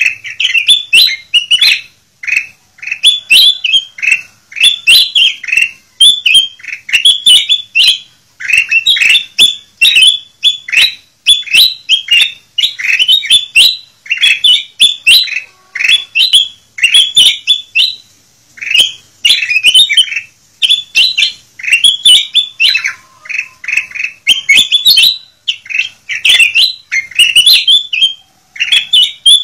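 Kutilang emas bulbul singing loudly and almost without pause: quick runs of bright, chirping whistled notes, each phrase under a second, repeated over and over.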